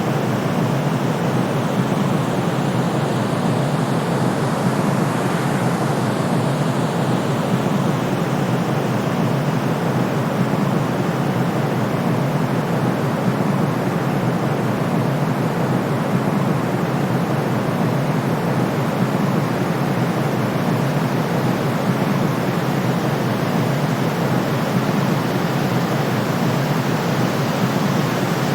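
Steady, unbroken white noise for soothing a colicky baby, weighted toward the low and middle range like pink noise, with the deepest bass cut away.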